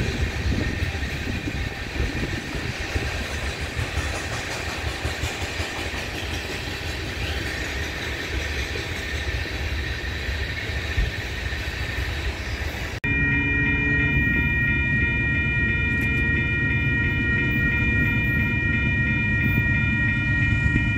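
Freight cars rolling past with a steady rumble and wheel clatter. About 13 seconds in it cuts to a railroad grade-crossing warning bell ringing steadily, with the low rumble of a train still far off.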